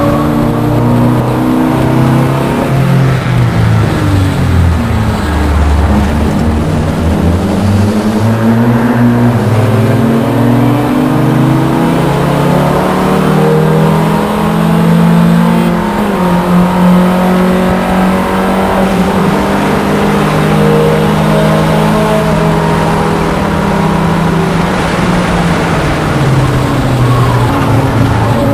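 A VW Rabbit race car's four-cylinder engine under hard track driving. It drops in pitch a few seconds in, climbs steadily through the revs, holds high for several seconds, then falls again near the end.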